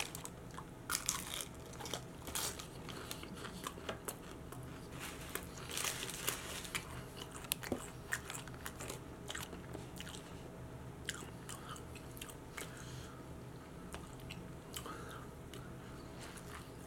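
A person eating: crunching and chewing a ranch-dipped fried onion ring, then biting into and chewing a burrito, with irregular crisp mouth clicks throughout.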